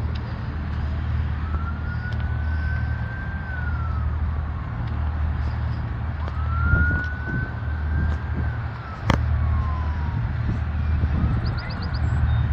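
Emergency vehicle siren wailing, its pitch slowly rising, holding and falling about every four to five seconds, over a steady low rumble. One sharp click about nine seconds in.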